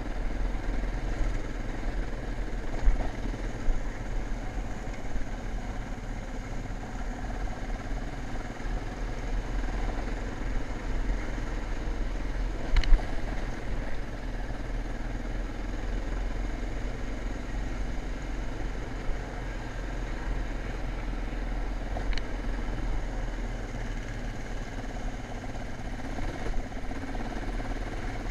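Dirt bike engine running steadily, with a few sharp knocks along the way.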